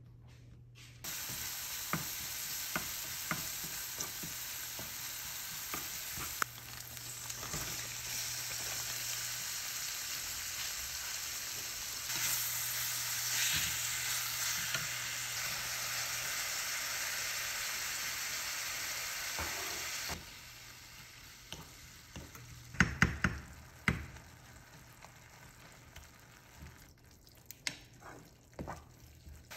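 Chopped green onions and ground meat sizzling in oil in a frying pan while being stirred with a wooden spatula. About two-thirds of the way through the sizzle drops away, and the spatula knocks against the pan a few times.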